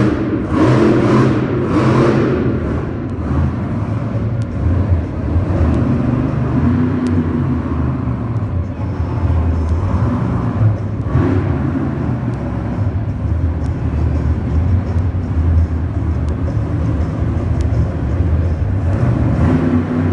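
Monster truck engine running hard and revving repeatedly, its pitch rising and falling.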